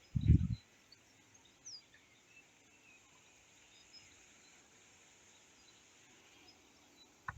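A brief gust of strong wind buffeting the phone's microphone, a short low rumble about a quarter second in; otherwise faint, scattered bird chirps.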